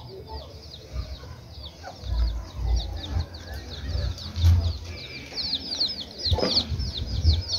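Birds chirping: a steady stream of short, high-pitched, falling chirps, several a second, with low rumbles of wind on the microphone underneath.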